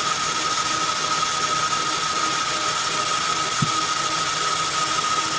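Metal lathe running steadily at 400 RPM, a steady whine over its running noise, while a boring bar makes a light spring pass in a cast iron pulley bore, barely cutting. A single click a little past halfway.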